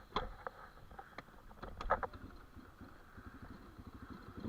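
Dirt bike engine idling low after a slide on ice, with a few sharp clicks and knocks, the loudest about two seconds in.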